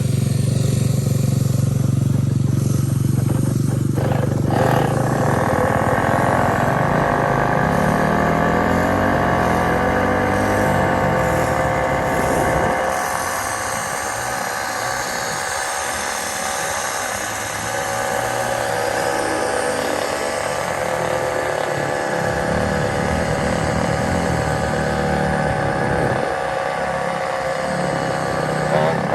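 Small motorbike engine running at a steady speed. Its pitch settles and holds from about four seconds in.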